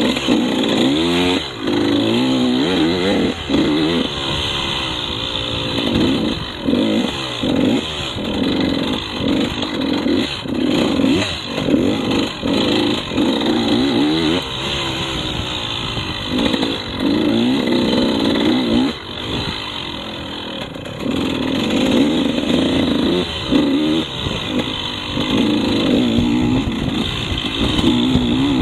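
KTM 150 two-stroke dirt bike engine being ridden hard, its revs rising and falling again and again as the throttle is opened and chopped, with frequent short drops in loudness.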